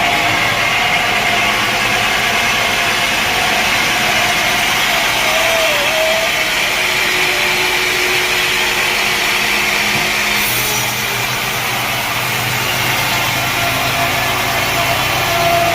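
Sawmill machinery running steadily with a loud, dense mechanical noise, a saw working through mahogany logs.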